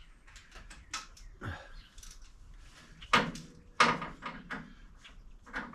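A series of knocks and clunks, as of objects being moved and set down. The two loudest come about three and four seconds in.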